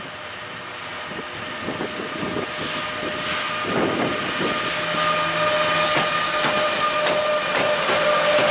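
Bombardier Traxx E186 electric locomotive hauling a container freight train, approaching and passing close by: wheels clicking over the rail joints, getting steadily louder. About five seconds in, as the locomotive passes, a steady whine sets in and the rushing of the container wagons follows.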